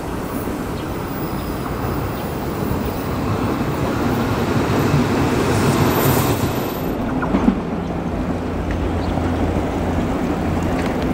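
Steady rumble of a rail vehicle at an Odakyu 8000 series train, with a low hum that grows more distinct about seven seconds in and one short sharp click about seven and a half seconds in.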